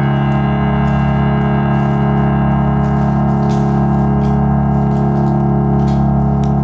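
A live musical-theatre band holding one long sustained chord that rings out at the end of a song, with a few scattered sharp clicks over it.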